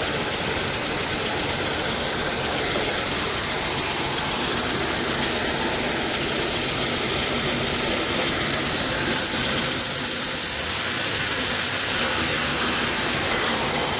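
Buick 231 cubic inch (3.8 L) V6 idling steadily under an open hood, with a strong even hiss over it; the engine runs smoothly with no knocking or ticking.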